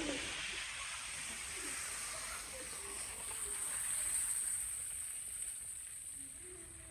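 Steady outdoor hiss with a few faint, distant voices, slowly fading away near the end.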